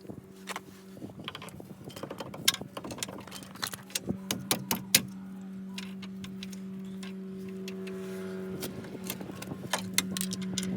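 Metal tools and car parts clinking and tapping in irregular bursts over a steady low mechanical hum.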